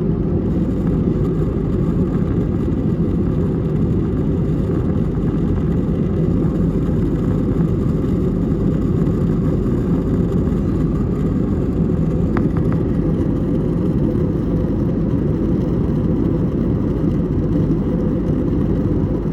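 Steady cabin noise of an Airbus A320neo in the climb after takeoff: a deep, even rumble of engines and airflow, with a faint click about twelve seconds in.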